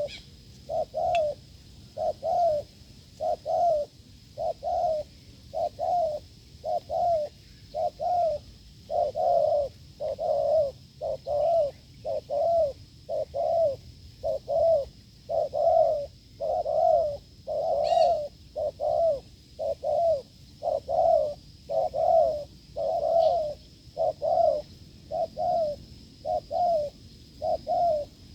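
Wild spotted dove giving its repeated 'gù' cooing call: short, hard coos in an unbroken, even series, about three every two seconds.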